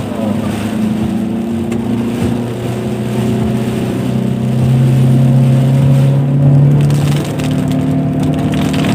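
Car engine heard from inside the cabin, pulling uphill in a low gear: its pitch climbs steadily for several seconds, then drops about seven seconds in as the revs fall. A steady hiss of heavy rain runs underneath.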